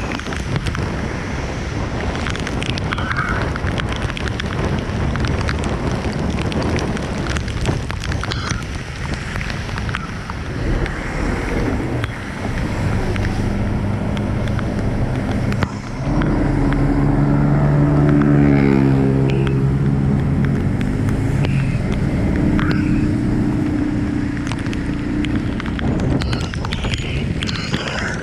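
Steady rain with road traffic. A vehicle engine hums past in the second half, loudest about two-thirds of the way in, its note rising briefly before it fades.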